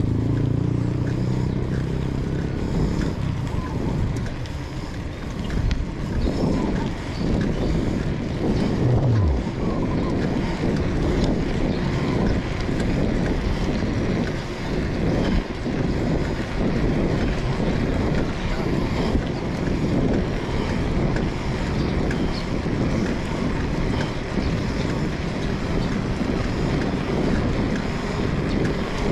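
Wind buffeting the microphone while moving, a steady low rumbling rush. A vehicle engine's hum fades out over the first few seconds, and a brief falling tone comes about nine seconds in.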